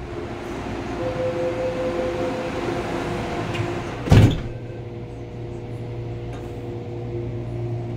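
Cabin noise of an MTR Airport Express train: a steady rushing hum with level electrical whine tones, broken about four seconds in by one loud, short thump, after which the hiss drops and a steadier low hum with the same tones remains.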